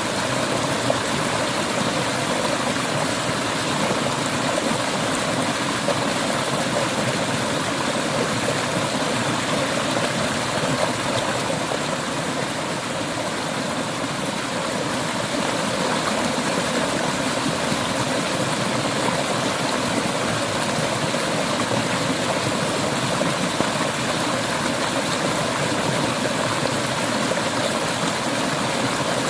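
Clear river water flowing over rocks, a steady rushing and splashing.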